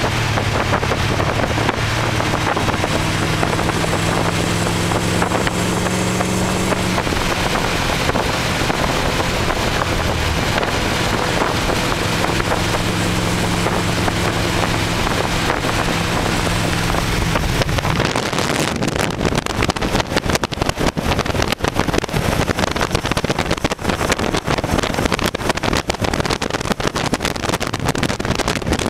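Engine of a 1928 Ford Model A hot rod roadster running steadily under way, heard from the open car. About two-thirds of the way in, wind buffeting on the microphone takes over and makes the sound choppy.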